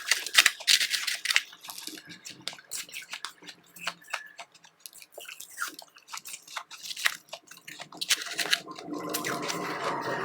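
Powdery ice chips crunched and chewed close to the microphone, in bursts of sharp crunches: dense at the start, sparse in the middle, dense again near the end, where it turns into a steadier grinding.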